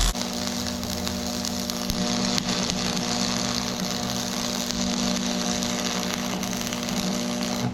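Stick welding: the arc hissing and crackling steadily over the welder's transformer hum. The arc breaks off near the end, leaving the hum alone.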